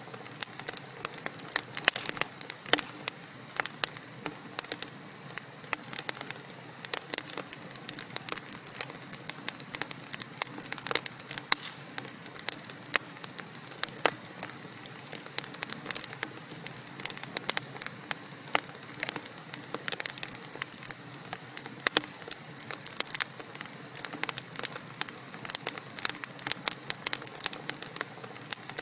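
Wood fire in a fireplace crackling steadily: irregular sharp pops and snaps of burning logs over a soft hiss.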